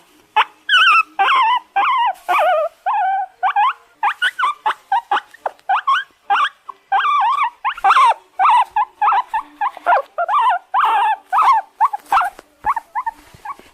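Guinea pig wheeking: a rapid, continuous series of short, high squeals, several a second, each sliding up and down in pitch, ending abruptly near the end.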